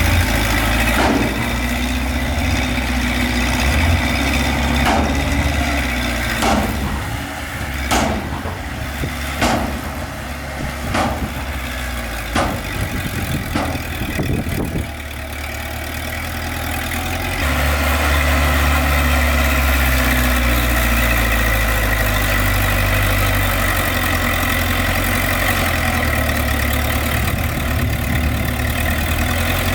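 Heavy diesel engine of earth-moving machinery running steadily. For the first half there is a series of sharp metallic knocks about every one to one and a half seconds. About halfway through the engine note grows louder and fuller.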